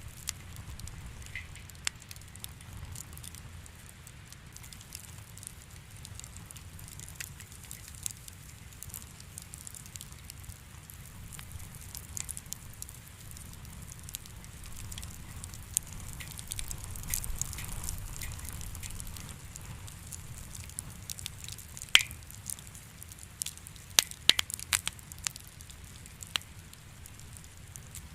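Wood fire crackling in a fireplace: a steady low rumble with scattered small pops, and a few louder, sharper snaps about three-quarters of the way through.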